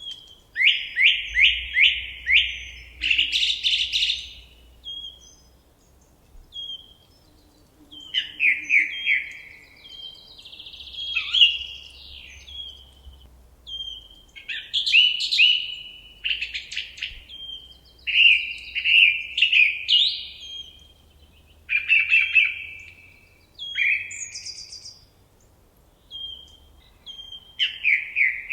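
Songbird singing in the forest: short phrases of quick down-slurred notes, each ending in a buzzy flourish, repeated every few seconds with quiet pauses between.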